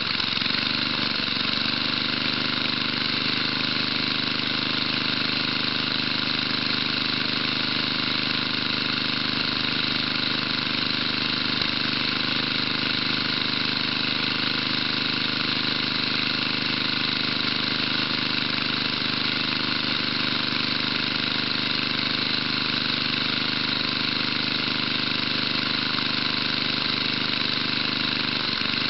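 1975 Tecumseh 5 hp single-cylinder engine running steadily at an even speed. The owner calls it a very worn-out engine with only 20 to 30 pounds of compression.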